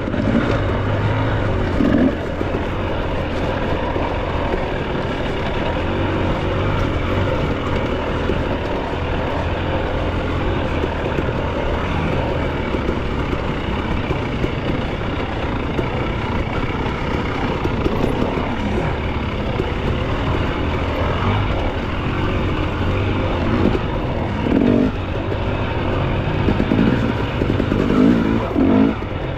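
Enduro dirt bike engine running at steady low revs, with a few short rises in revs.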